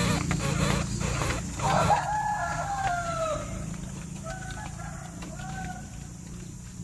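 Rooster crowing: one long crow falling in pitch at its end, then two shorter calls, over rustling noise in the first two seconds.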